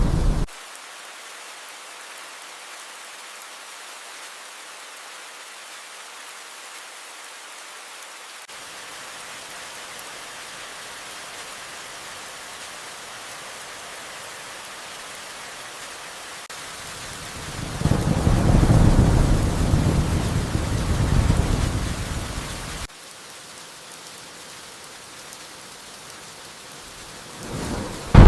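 Steady rain hiss with thunder. A loud thunder rumble cuts off suddenly just after the start; about two-thirds of the way in a low rolling rumble of thunder swells and then stops abruptly, and another loud rumble begins suddenly at the very end.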